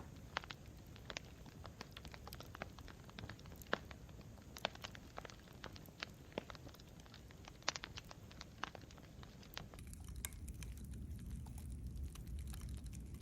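Campfire crackling: irregular sharp snaps and pops of burning wood over a low, steady rumble. About ten seconds in, the rumble grows fuller and the pops become sparser.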